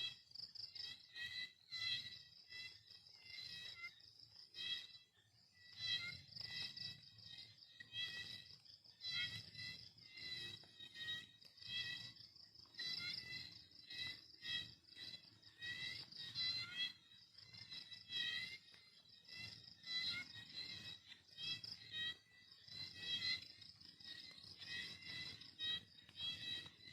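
Crickets chirping over and over in a steady high-pitched rhythm, with scattered faint clicks.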